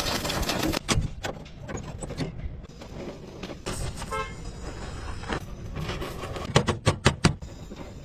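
Workshop clatter of metal knocks and taps from tools on a car, with a quick run of knocks near the end. A short pitched tone sounds about four seconds in.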